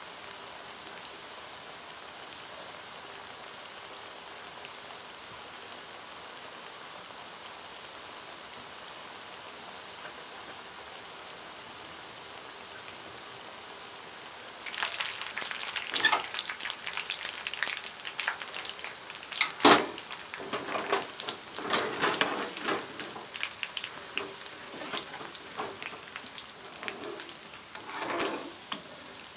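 Potato and sausage pieces frying in oil in an aluminium frying pan: a steady, even sizzle. About halfway through it turns louder and more irregular, with crackles and the scrapes and clinks of a metal slotted spoon stirring and scooping the pieces, and one sharp knock about two-thirds through.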